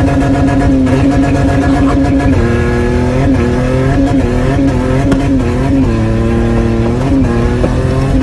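Car engine running hard at high revs, its pitch held steady and dipping briefly a few times, around two and a half, six and seven seconds in.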